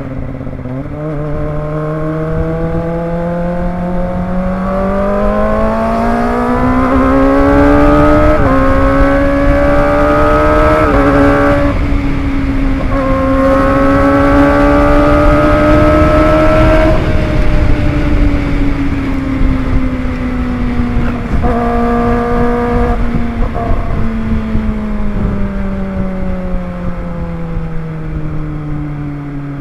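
Kawasaki ZX-25R's 250 cc inline-four engine accelerating up through the gears, its pitch climbing with short dips at two or three upshifts in the first half. It then eases off and winds down steadily toward the end, over a steady rush of wind and road noise.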